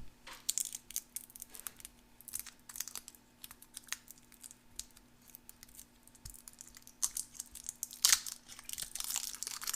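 A wrapper being peeled and torn off an old, 1956-vintage Charms candy tablet: irregular small tears and crinkles, busier and louder near the end.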